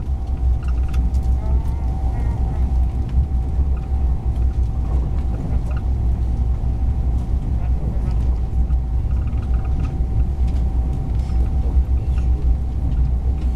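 Passenger train running, heard from inside the carriage: a steady low rumble with a thin constant whine above it.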